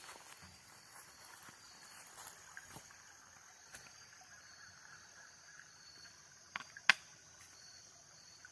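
Faint steady rush of a creek's flowing water with a thin, steady high insect buzz over it; a sharp knock sounds about seven seconds in.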